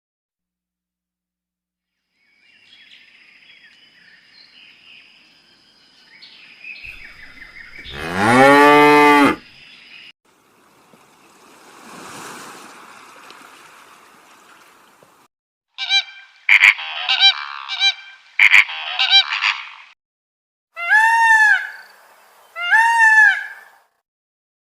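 A cow moos once, long and loud, about eight seconds in. Later a run of short honking calls from geese follows, ending with two separate honks.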